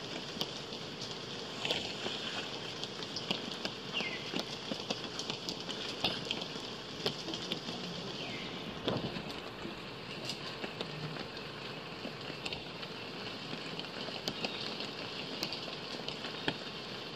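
Steady rain falling, with scattered drops tapping sharply on nearby surfaces. Two faint, short high calls that fall in pitch come through the rain, one about four seconds in and one about eight seconds in.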